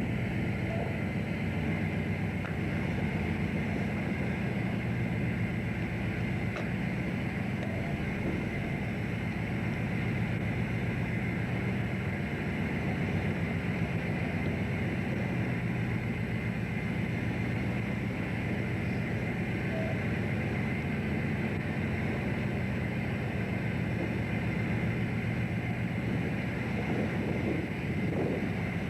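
Fishing boat's engine running steadily: a constant low drone heard on board.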